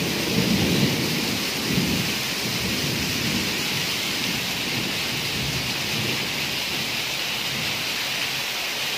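Heavy rain pouring down in a steady, dense hiss. There is a low rumble through the first couple of seconds, after which the rain goes on evenly.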